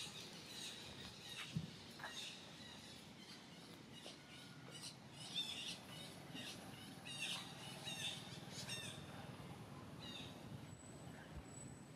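Birds chirping: short, high calls in scattered clusters, busiest in the middle, over faint background noise, with a brief thin high whistle near the end.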